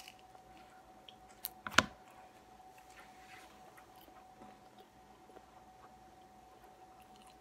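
Mouth chewing a bite of burrito, mostly faint, with two sharp clicks close together about a second and a half in. A faint steady tone hums underneath.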